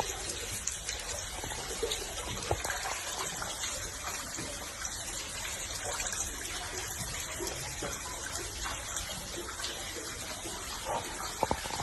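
Floodwater rushing: a steady, even noise of moving water, with a few faint clicks.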